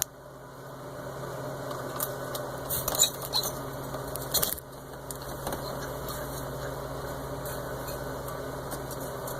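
Light clinks and knocks of a fork and dishes against a glass bowl, a cluster of them a few seconds in, over a steady low hum.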